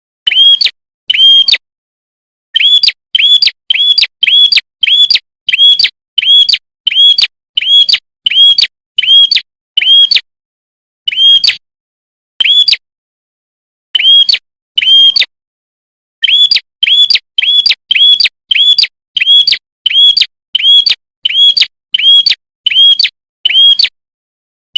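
Prenjak kepala merah repeating a short, sharp chirp about one and a half times a second, in runs broken by short pauses.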